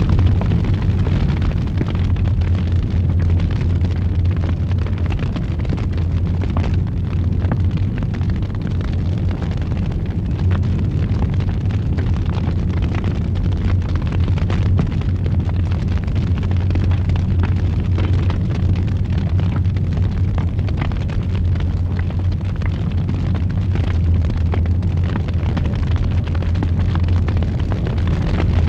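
Fire burning in a fireplace: a steady low roar with many small crackles and pops scattered irregularly throughout.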